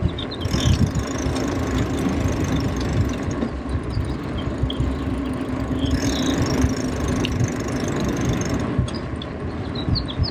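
Wind buffeting the microphone while riding a bicycle, a gusty low rumble with stretches of hiss, and short bird chirps near the start and again near the end.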